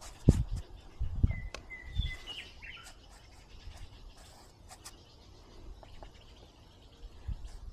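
A songbird gives a few short chirps about a second in. There are a few low thumps in the first two seconds and faint scattered ticks.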